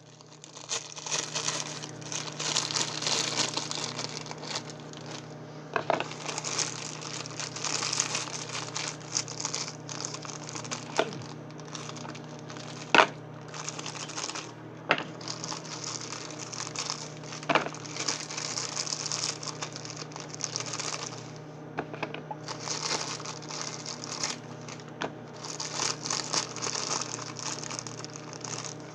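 Microwave oven running with a steady low hum, under irregular crackling and crinkling with occasional sharp clicks.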